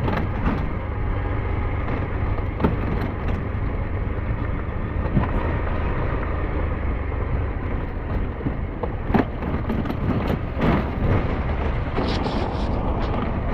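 SYM NH T 200 motorcycle engine running steadily on the move, with road and wind noise and a few short knocks from the rough road.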